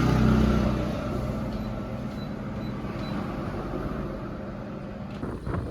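A motor vehicle's engine running, loudest in the first second and then easing off.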